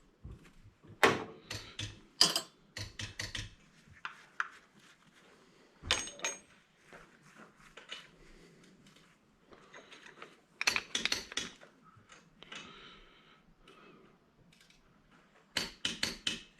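Metal parts and hand tools clinking and clattering as an old electric angle grinder is taken apart by hand for scrap. The sharp clinks come in short clusters, about a second in, a little after two seconds, around six seconds, around eleven seconds and near the end.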